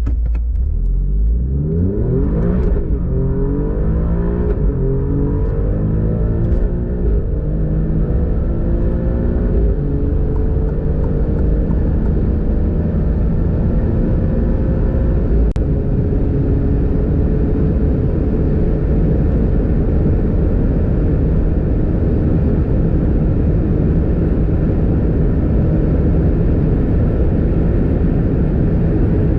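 Alfa Romeo Giulia Quadrifoglio's twin-turbo V6 under full-throttle acceleration. Its pitch climbs and drops back through quick gear changes in the first few seconds, then rises slowly and steadily in a long pull at high speed, over heavy road and wind noise.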